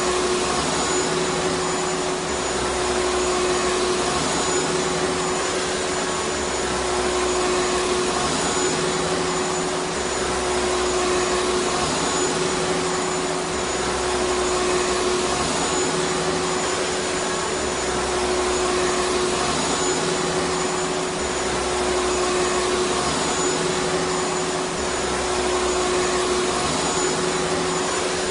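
Vacuum cleaner motor running steadily: a constant rushing whine with one steady tone through it, and a deep hum underneath that swells and fades about every two seconds.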